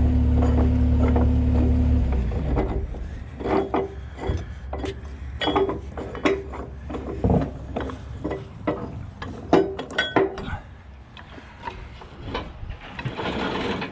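A motor hums steadily and cuts off about two seconds in. Then comes a run of irregular metallic clanks and clinks, several ringing at the same pitch, from recovery rigging such as chain and hooks being handled.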